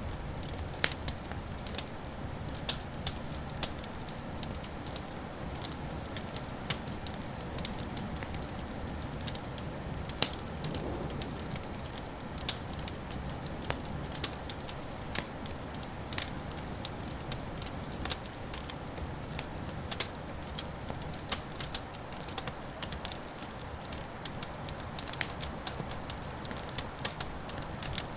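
Wood fire crackling and popping in a fireplace, with irregular sharp snaps over a steady low rumble of burning.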